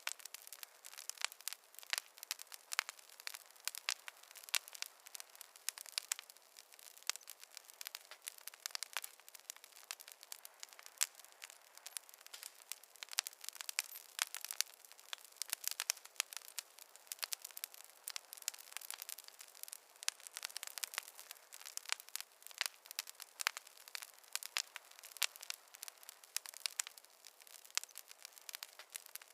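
Fireplace fire crackling: a dense, steady stream of small pops and snaps, thin and without any low rumble.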